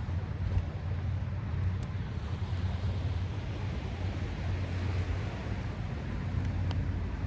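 Wind rumbling on the microphone over a broad wash of noise like surf, which swells in the middle, with a few faint ticks.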